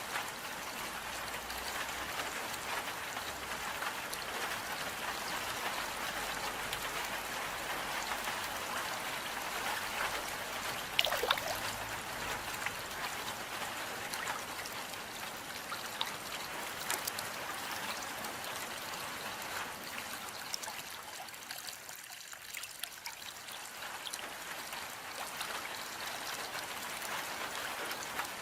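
Steady rain falling: an even hiss with scattered drop ticks, one sharper tick about eleven seconds in, and a slight lull a little past the middle.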